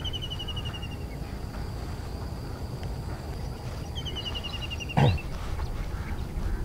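A bird calls twice, each time a quick run of rapid high notes that falls slightly in pitch, over a steady high insect whine and a low rumble of wind on the microphone. A brief louder thump comes about five seconds in.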